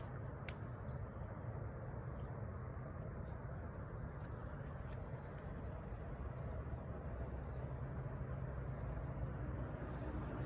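Outdoor background of a steady low rumble, with short faint high chirps repeating about once a second.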